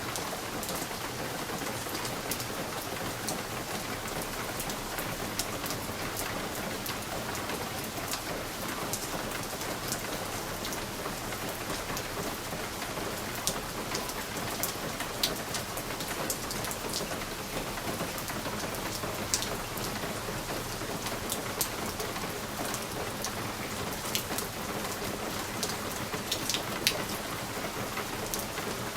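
Steady rain on a window, an even hiss with individual drops ticking sharply against the glass at irregular moments.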